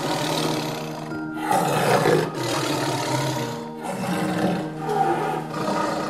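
Tiger roaring in three long bouts, with short breaks about a second and nearly four seconds in, over background music with held notes.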